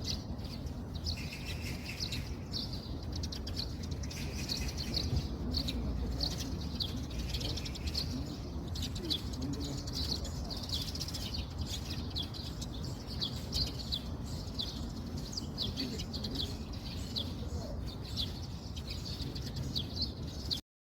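Small birds chirping, with many short quick chirps over a steady low rumble; the sound cuts off suddenly near the end.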